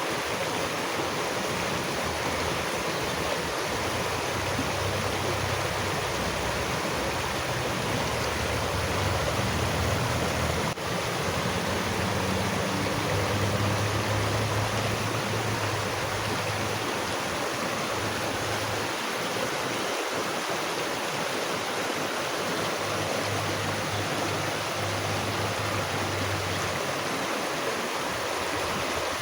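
Running water, like a stream, rushing steadily, with a brief momentary dip in level about ten seconds in.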